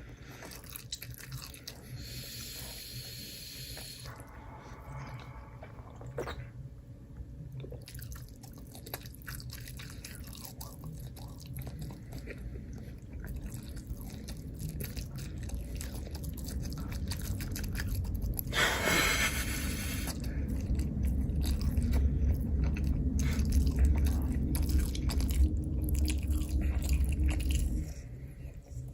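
Close-miked ASMR chewing and crunching, with many small wet mouth clicks. Later a steady low hum comes in and cuts off shortly before the end.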